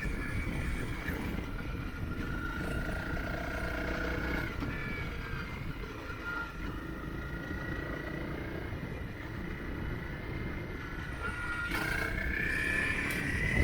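Motorcycle engine running under way, its pitch drifting a little as the throttle changes, with rough rumble and wind noise on the microphone. It gets somewhat louder near the end.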